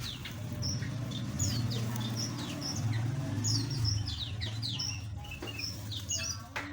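A flock of small aviary birds chirping: many short, high, falling chirps overlapping continuously. A low steady hum runs underneath and is strongest in the middle.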